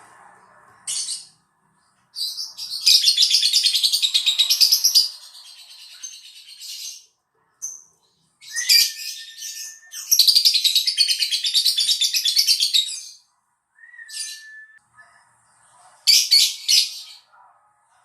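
Lovebird singing in long, rapid chattering trills, two bursts of about three seconds each, with shorter high chirps and a couple of brief level whistled notes between them.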